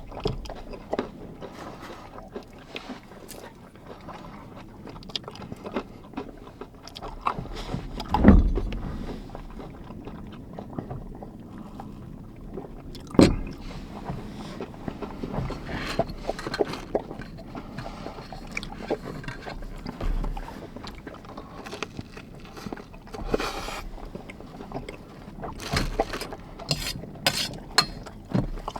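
Irregular clicks, knocks and scrapes of things being handled in a small enclosed space, with two louder thumps about 8 and 13 seconds in.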